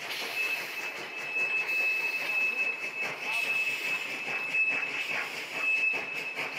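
Passenger coaches of a steam-hauled train rolling slowly past, with a steady high-pitched wheel squeal as the train slows to stop at the station, and scattered knocks from the running gear.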